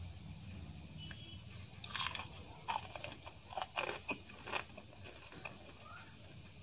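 Close-up crunchy chewing of a crisp deep-fried pakoda: a run of sharp crackling crunches from about two seconds in to about four and a half seconds, then softer chewing.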